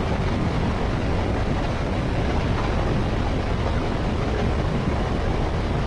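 Honda Africa Twin's parallel-twin engine and wind rushing past the rider at road speed: a steady low rumble with a hiss of wind noise.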